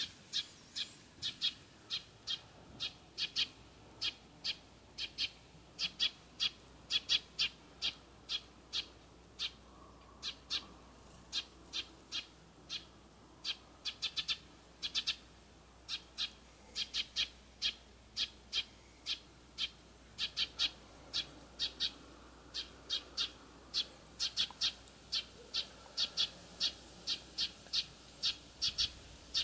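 A bird calling with short, high chirps, repeated two or three times a second in runs with brief pauses.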